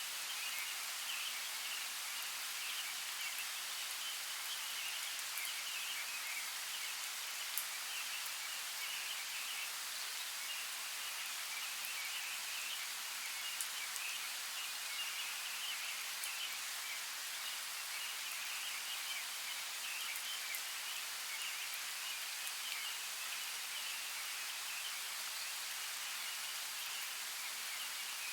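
Steady rain: an even hiss with a crackling patter of drops, and a few sharper single drips.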